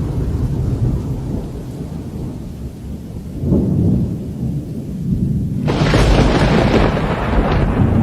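Cyclone storm sounds: a low rumble of wind and rain, then a sudden loud rush of wind-driven rain about six seconds in.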